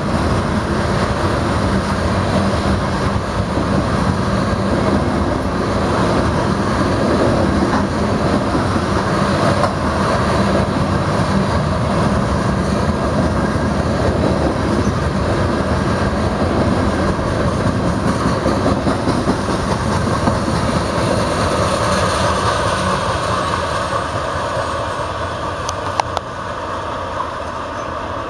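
Empty steel coal hopper cars of a freight train rolling past: a steady rumble and clatter of wheels on the rails, fading near the end as the last cars go by. A single sharp click comes near the end.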